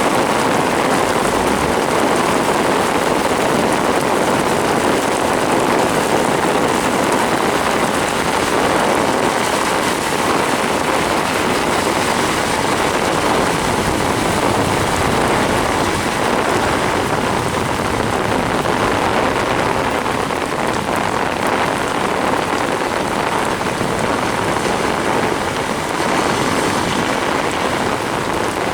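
Torrential rain beating on a car, a loud, dense, steady hiss.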